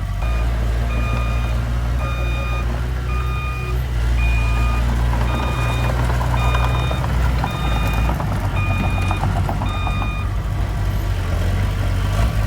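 A construction vehicle's reversing alarm beeping at an even pace, about three beeps every two seconds, over the low rumble of a heavy engine; the beeping stops near the end.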